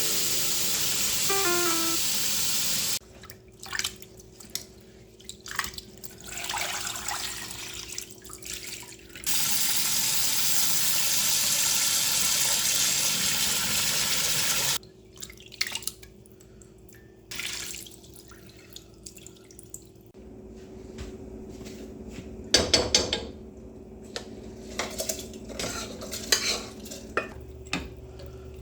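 Kitchen tap running in two long spells, with dishes and utensils clinking in between and a few louder knocks about three-quarters of the way through.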